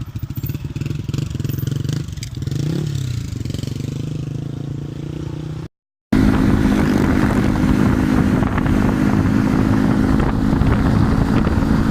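Yamaha XSR155's single-cylinder engine running while riding, with a brief rise in pitch about two and a half seconds in. The sound cuts out for a moment just before the middle, then returns louder and steady.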